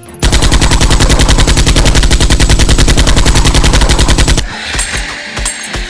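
A long burst of rapid automatic gunfire, about sixteen evenly spaced shots a second, which stops abruptly about four and a half seconds in. Background music with a beat follows.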